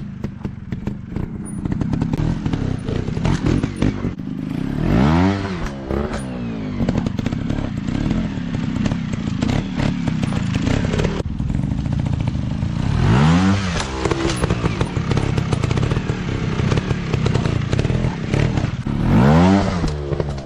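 Dirt bike engines running with a crackling, rattly exhaust note, revving up and back down three times: about 5 seconds in, around 13 seconds, and near the end.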